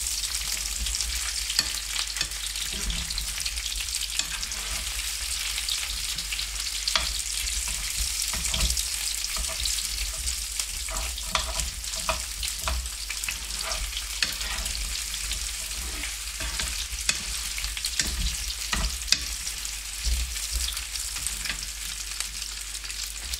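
Corn-flake-coated sausages and potato noodles frying in oil in a pan: a steady sizzle with scattered sharp pops and clicks.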